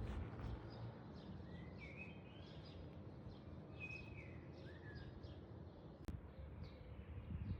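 Birds chirping faintly over a steady background hiss: short high chirps and a few falling whistled notes, with a sharp click a little past halfway.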